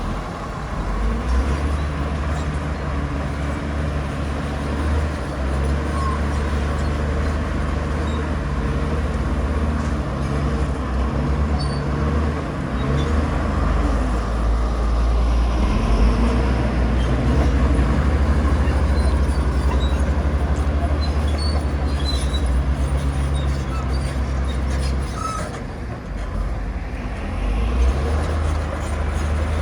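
Heavy diesel earthmoving machinery running under work: a deep, steady engine drone that grows a little louder in the middle and dips briefly near the end.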